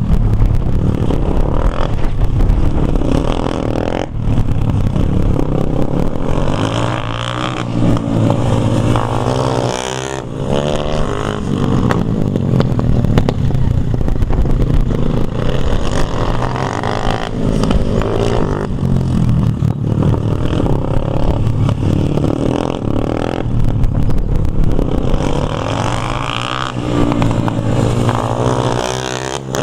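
Dirt bike engine running hard, its pitch climbing and dropping again and again as the throttle is worked and the bike goes through the gears.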